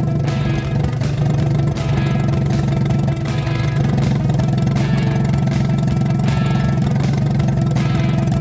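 Tohatsu 25 hp outboard motor running steadily with its jet drive removed.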